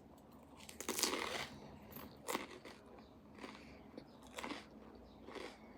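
Close-miked mouth taking a bite of air-fried bone marrow, then chewing, with a wet crunch about a second in followed by chews roughly once a second.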